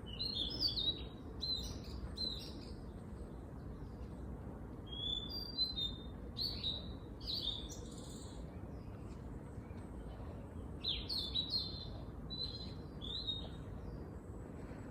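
Small songbirds chirping and singing in short bursts of high whistled notes, coming in clusters with pauses between, over a steady low background rumble.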